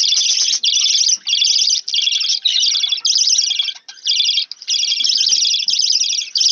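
Budgerigars chattering loudly: dense runs of rapid high chirps in short bursts of about half a second, with brief gaps between them.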